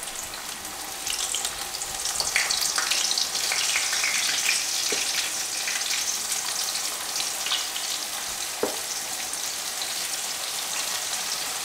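Goose meat frying in hot oil in a pan, a steady sizzle that swells about a second or two in. A few sharp clicks of metal tongs against the pan break through it.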